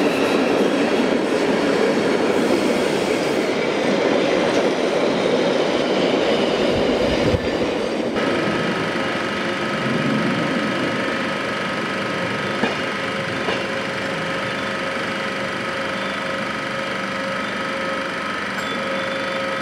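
Metre-gauge shunting train rolling slowly along a station track, with wheel clatter and squeal on the rails. About eight seconds in, the sound cuts to a quieter, steady railway hum with a held whine as passenger coaches are shunted into the platform.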